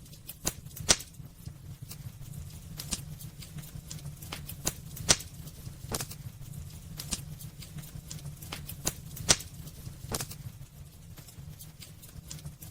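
Wood fire burning in a fireplace: irregular crackles and sharp pops over a low, steady rumble, with louder snaps about a second in, around five seconds and just after nine seconds.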